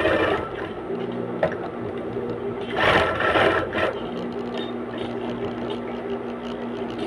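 Single-needle sewing machine running under foot-pedal control, stitching with a steady motor hum. It grows louder for a moment about three seconds in.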